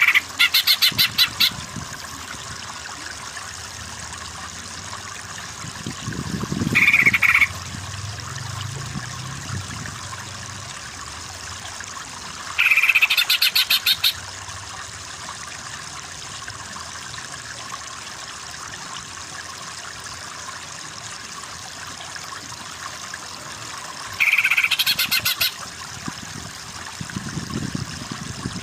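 A bird calling four times, each call a short clear note running into a fast rattling trill about a second long, over a steady hiss like running water.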